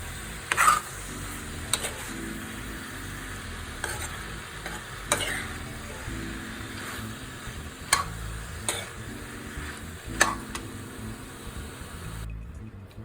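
Chicken and vegetables sizzling in a frying pan while being stirred, a utensil scraping and knocking against the pan every second or two. The sizzling cuts off just before the end.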